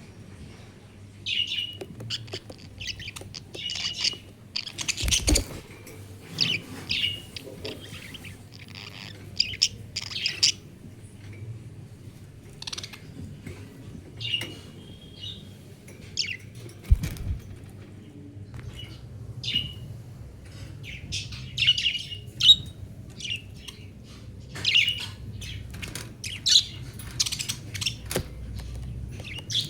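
Pet budgerigars chirping in short, high calls that come quickly and irregularly, with a dull thump about five seconds in and another a little past halfway.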